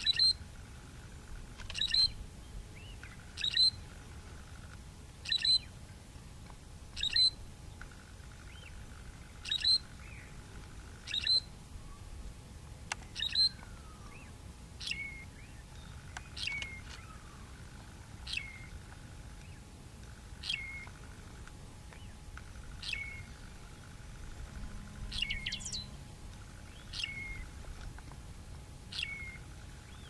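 A bird repeating a short, high call about every two seconds. About halfway through, the calls change to a whistle that falls quickly and settles at a lower pitch.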